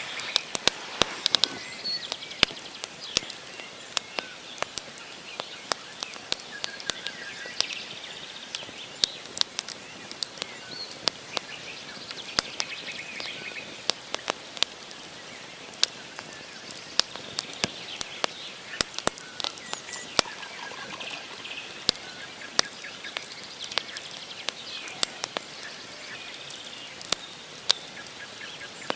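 Wood campfire burning with irregular sharp crackles and pops from the logs over a steady hiss, with faint bird chirps at times.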